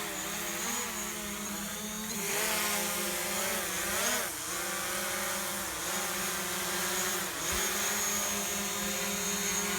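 DJI Mavic Pro quadcopter hovering close by as it is brought in to land, its four propellers giving a steady buzzing whine. The pitch swings up and down several times as the motors speed up and slow down.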